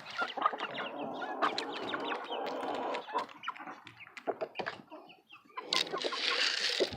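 A flock of chickens clucking softly, with many short, sharp taps mixed in. A rustling noise rises near the end.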